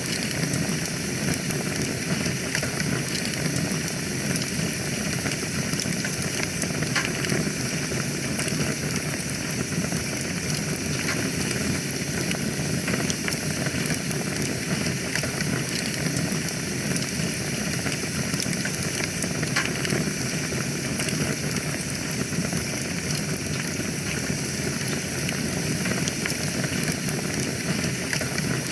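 Wood fire burning in a fireplace: a steady hiss and rumble of flames with many small crackles and pops.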